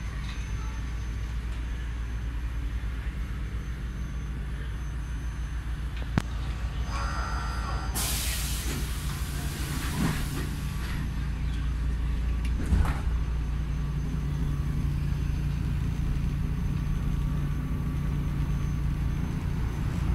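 Inside an EN57 electric multiple unit's carriage, a steady low hum runs throughout. Just before eight seconds in there is a short beeping tone, then a loud hiss of released compressed air that fades over the next few seconds. A second, shorter hiss comes a little before the thirteenth second.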